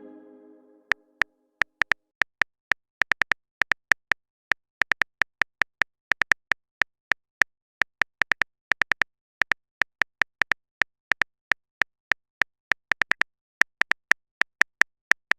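Phone-keyboard typing sound effect: short, sharp clicks at an irregular pace, a few a second, as a text message is typed out. A message chime's tone fades out at the start.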